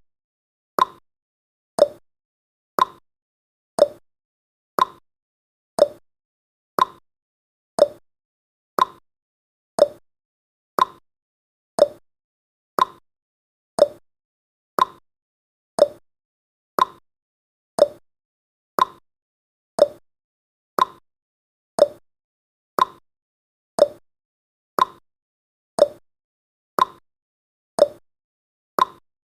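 Clock tick-tock sound effect of a countdown timer: short, sharp ticks about once a second, alternating between a higher and a lower tick.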